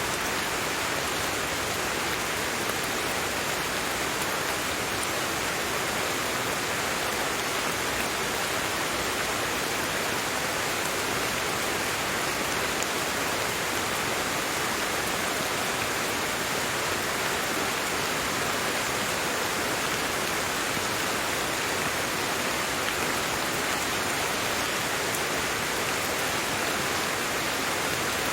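Steady, even rain with no distinct drops or changes.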